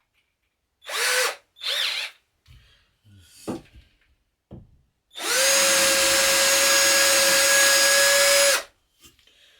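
Mailtank cordless drill running free: two short squeezes of the trigger about a second in, the motor speeding up and winding back down each time, then held on for about three and a half seconds at a steady full speed before being released.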